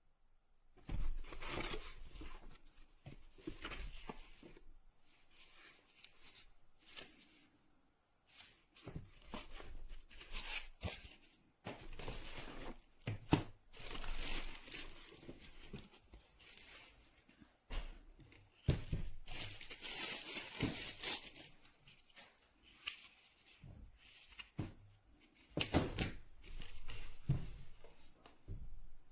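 Irregular rustling and crinkling handling noise, with a few short knocks and soft thumps between the bursts.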